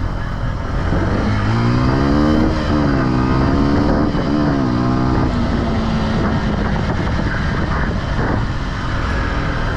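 Single-cylinder off-road vehicle engine being ridden hard, its pitch rising and falling several times as the throttle is worked, then settling steadier after about five seconds. Wind rumbles heavily on the microphone throughout.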